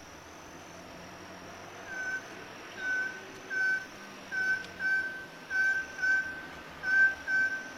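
A bird calling: a short, flat whistled note repeated over and over, about one to two a second, starting about two seconds in, over a steady hiss.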